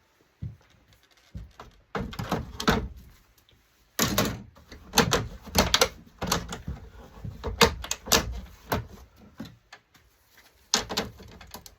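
Knocks and clatter of metal and plastic LCD monitor parts being handled and fitted back together. A couple of single knocks come first, then a busy run of clatters begins about two seconds in and goes quiet briefly near the end.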